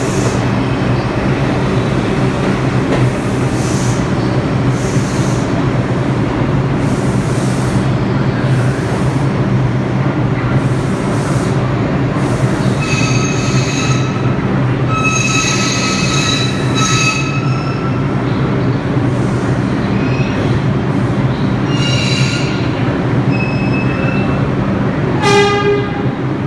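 New York City subway train running through the station, a steady loud rumble with a low hum. In the middle come high-pitched squeals of metal on the rails, and near the end a brief pitched tone with many overtones.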